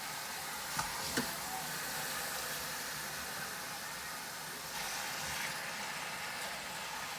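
Chicken pieces searing in hot oil in an Instant Pot on sauté, sizzling steadily. Two light knocks come about a second in.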